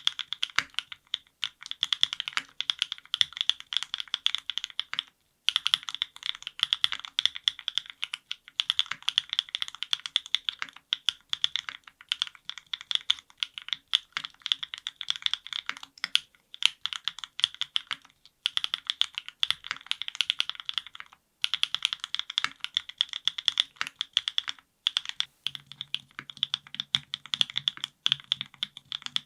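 Fast typing on a NEO70 custom mechanical keyboard with lubed Gateron Milkshake linear switches and GMK keycaps, built with no foam on a carbon plate in gasket mount. The keys are typed in runs of several seconds with brief pauses. About 25 seconds in, the build changes to O-ring mount.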